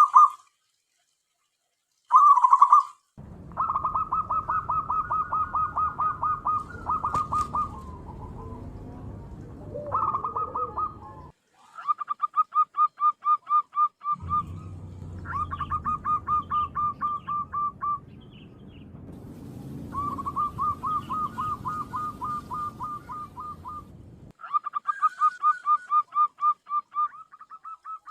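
Zebra dove (perkutut) calling: bouts of rapid, evenly pulsed notes a few seconds long, repeated with short breaks between them.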